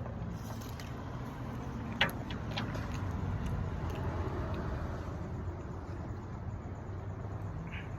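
Steady low hum of an idling car engine, heard inside the cabin, with one sharp click about two seconds in.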